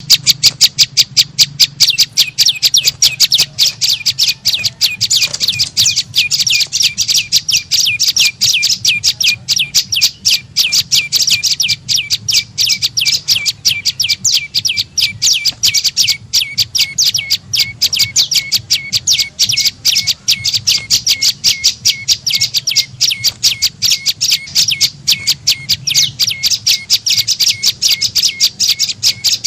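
Prenjak lumut call used as a bird-trapping lure: a fast, unbroken run of sharp, high chirps, about four a second, at an even pace throughout.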